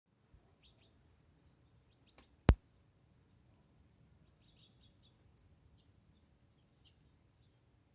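Faint, scattered chirps of small birds, with one loud, sharp click about two and a half seconds in, just after a fainter one.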